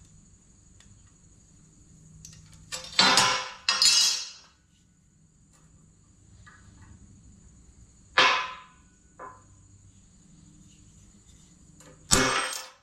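Steel plate being worked by hand: four loud knocks or clanks. Two come close together about three seconds in, one near the middle and one near the end, and each dies away within about half a second.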